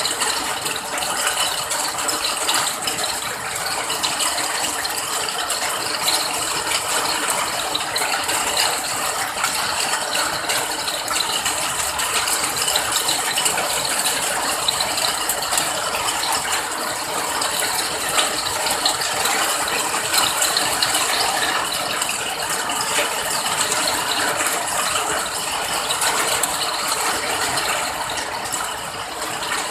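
Steady rain: a dense, unbroken crackle of countless drops hitting a surface.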